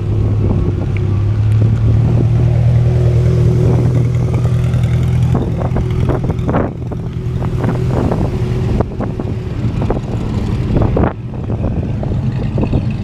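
Car engine running steadily, a constant low drone, with a few brief knocks and rattles over it.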